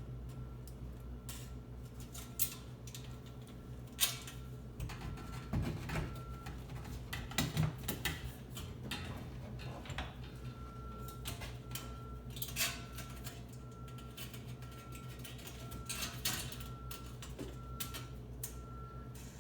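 Scattered clicks and knocks of mounting screws and a metal wall bracket being handled and fastened, over a steady low hum.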